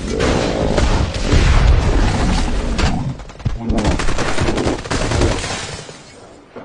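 Rapid, sustained gunfire from an action-film soundtrack, dense volleys of shots with a brief lull about halfway through, fading out near the end.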